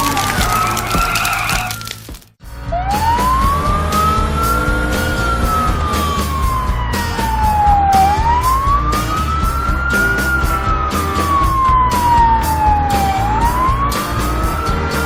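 A wailing siren whose pitch slowly rises and falls in cycles of about five seconds, over background music with a steady beat. The sound drops out briefly about two seconds in.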